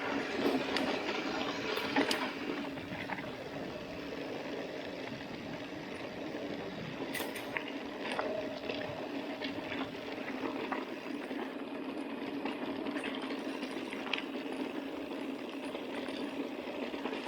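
Mountain bike rolling over a dusty dirt road: a steady rushing noise of tyres on loose ground, with a few sharp clicks and rattles from the bike over bumps.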